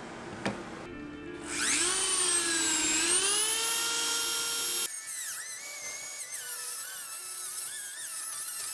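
A click, then a drill press motor whines up to speed, dips in pitch once and holds steady before cutting off abruptly about five seconds in. Warbling electronic music follows.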